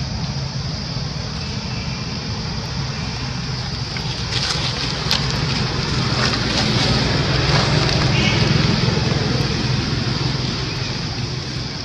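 A motor engine running with a steady low hum under a noisy wash, growing louder toward the middle and easing off near the end.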